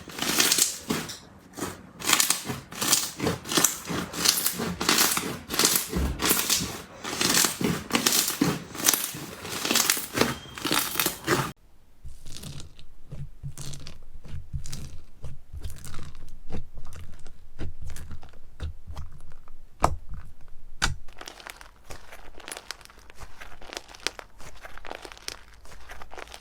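Slime being squeezed and pressed by hand, making dense crackling and popping. A little under halfway through it switches abruptly to a quieter stretch of sparser crackles and pops.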